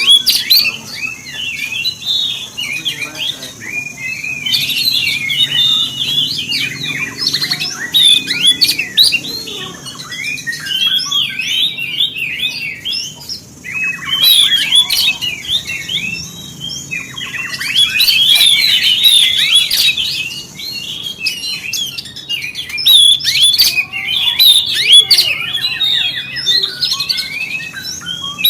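Oriental magpie-robin (kacer) singing a fast, varied song of rapid chirps and whistles, in long runs broken by a few short pauses.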